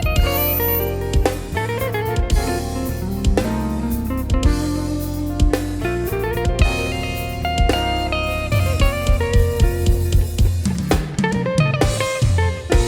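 Upbeat live band music played without singing: electric guitar, bass and a drum kit with kick and snare.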